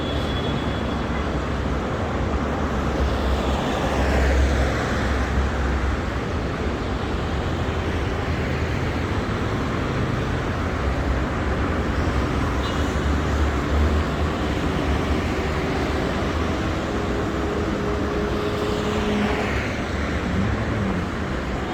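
Road traffic on a wet city street: a steady rumble of engines and tyre hiss, with vehicles passing close by about four seconds in and again near the end.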